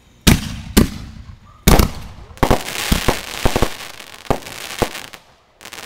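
Fireworks going off: three sharp bangs in the first two seconds, then a few seconds of dense crackling with scattered pops, and a quick cluster of pops near the end.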